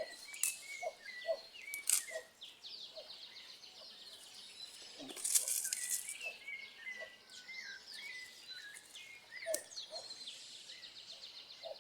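Several birds chirping and calling repeatedly, many short gliding notes, with a few brief sharp noises in between, the most prominent about five seconds in.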